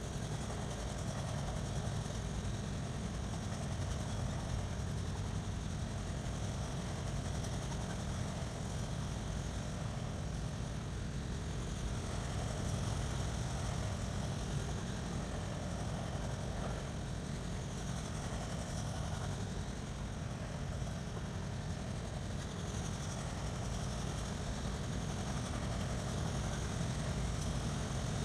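Freight train cars rolling past: a steady low rumble of steel wheels on the rails, unbroken throughout.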